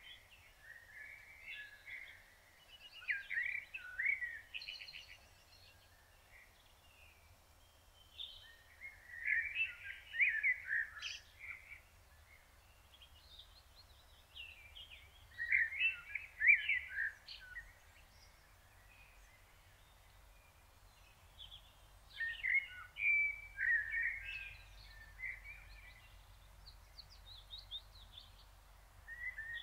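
A songbird singing outdoors: warbled phrases of two to four seconds, repeated about every six or seven seconds with short pauses between.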